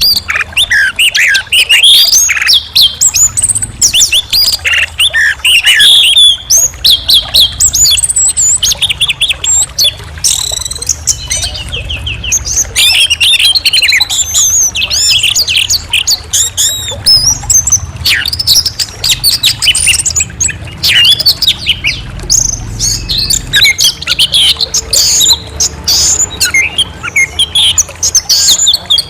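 Orange-headed thrush singing a continuous, varied song of quick whistled phrases, slurred glides and chirps, with a faint low hum underneath.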